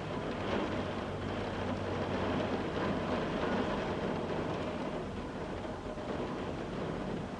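Steady rain hitting window glass, a faint even patter over a low steady hum.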